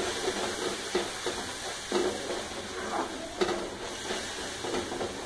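Besan halwa sizzling in a steel kadhai, the hot roasted gram flour and ghee bubbling as sugar syrup is added. A spatula stirs and scrapes against the pan several times, about once a second.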